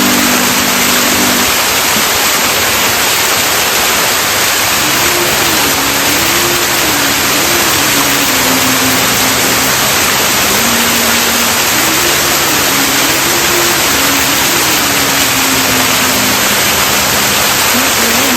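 Steady, loud rushing of a waterfall close by. From about five seconds in, a faint melody wavers underneath it.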